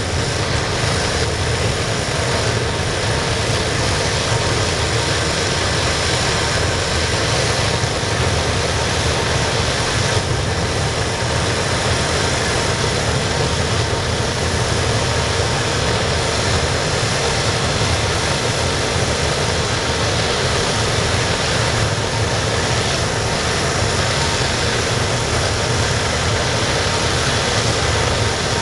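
Waste-oil burner firing the scrapping furnace, a steady loud rushing noise, with an air compressor running along with it.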